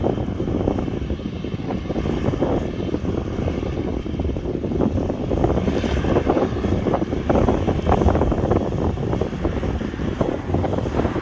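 Airbus A350-1000's Rolls-Royce Trent XWB turbofans running steadily as the airliner rolls along the runway.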